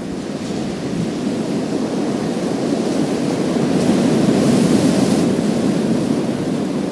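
Sea waves breaking and washing over a pebble beach, a continuous surf wash that swells about four seconds in, with a brighter hiss at its peak.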